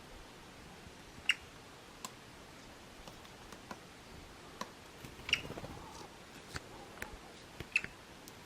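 Woodpecker making about a dozen short, sharp ticks at irregular intervals, three of them louder than the rest.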